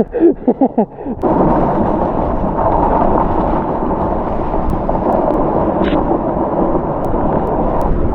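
A voice for about the first second, then a steady, loud, rumbling rush of wind buffeting a GoPro microphone as the sled is towed fast through snow.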